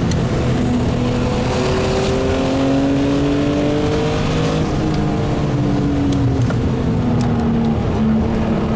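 BMW E36 M3 Evo's 3.2-litre S50B32 straight-six pulling hard on track, its note climbing for about four seconds and then dropping as it comes off the throttle, heard from inside the car. A few light clicks come through about six seconds in.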